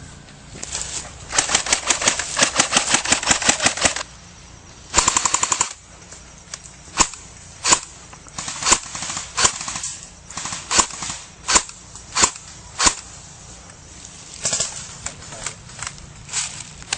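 Airsoft guns firing: a long full-auto burst of rapid shots, then a shorter burst about five seconds in, followed by scattered single shots.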